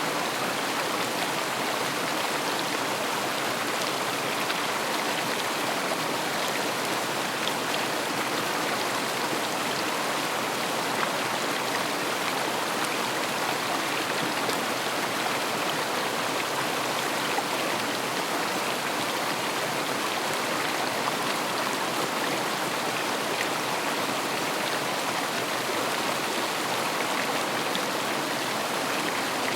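River water flowing and rushing over stones: a steady, even rush of water.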